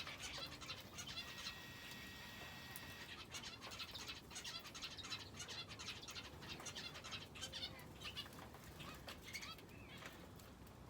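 Aviary finches and a canary chirping faintly, with many quick high calls and the flutter of small wings. About a second and a half in, one steady whistled note is held for over a second.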